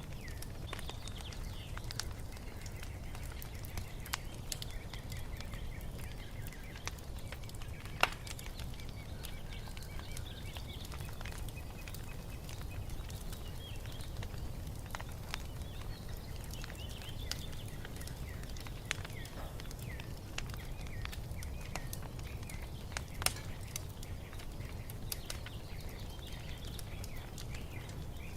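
Wood fire crackling over a low steady rumble, with scattered small crackles and two sharp pops, one about eight seconds in and one near the end. Small birds chirp and sing lightly throughout.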